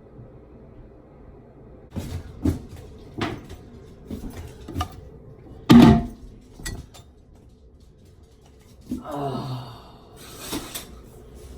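A run of sharp household knocks and clacks, like a cupboard or door being handled, the loudest about six seconds in. A short voice-like sound comes near nine seconds.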